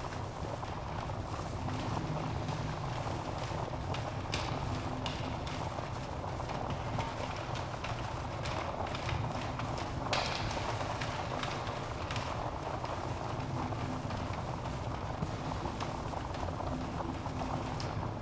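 Wood fire burning in a fireplace: a steady rush of flame with frequent crackles and small pops from the logs, one louder pop about ten seconds in.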